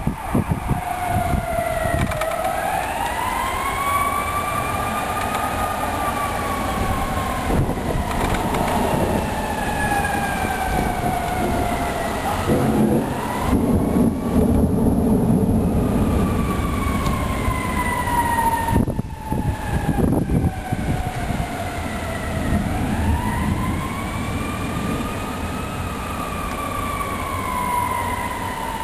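A siren wailing, its pitch climbing over a few seconds and then falling slowly, in two cycles, over a steady rushing noise. A louder low rumble comes about halfway through.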